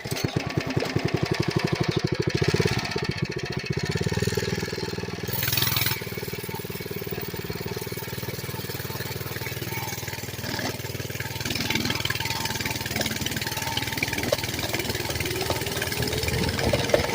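Mini bike's small single-cylinder engine running, with a fast, even firing pulse. It is louder for the first few seconds, then settles to a steadier run, and its pitch rises and falls again near the end.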